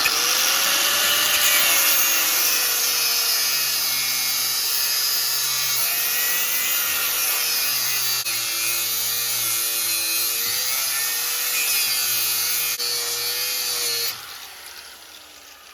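Angle grinder with its guard removed, cutting into a seized suspension control arm bolt and its sleeve: a loud, steady grinding hiss whose motor pitch wavers up and down as the load changes. It stops near the end, leaving a much quieter sound.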